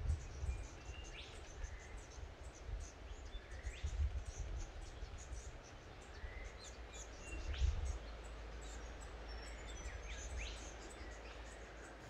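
Small birds chirping, with short, quick upward-sweeping calls scattered throughout, and fainter high calls, over a low rumbling background noise.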